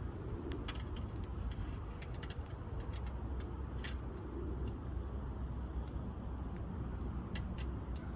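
Wood campfire burning, with a few sharp crackles and pops scattered over a steady low rumble.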